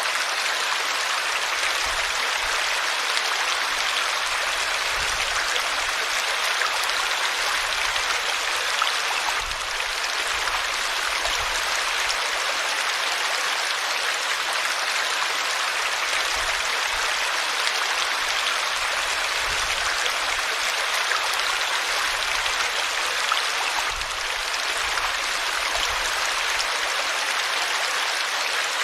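River water flowing, a steady rushing hiss that holds an even level throughout.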